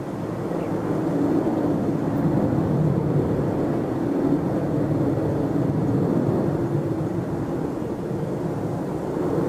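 Jet airliner engine noise: a steady, heavy rumble that swells about a second in and then holds.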